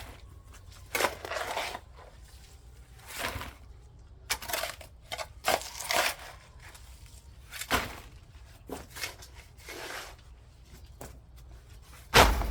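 Digging tool scraping and scooping soil in irregular strokes, as earth is shaved off and pushed in to fill holes along a bed edge. The strongest scrape comes near the end.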